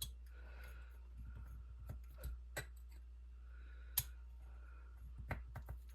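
Scattered small clicks and taps from a hex driver working on RC wheel screws and the wheel parts being handled, with one sharper click about four seconds in, over a low steady hum.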